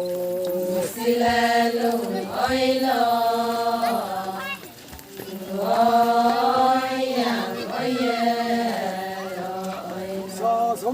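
Voices chanting an Adi ponung folk song in two long, drawn-out phrases with a short break between them.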